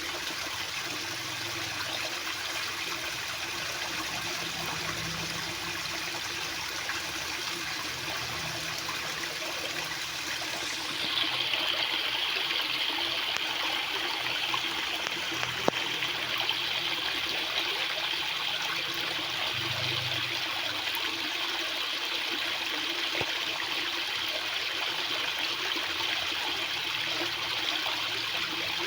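Fast-flowing water rushing in a steady, unbroken hiss. About eleven seconds in, the sound shifts and gets a little louder and brighter, with a single faint click a few seconds later.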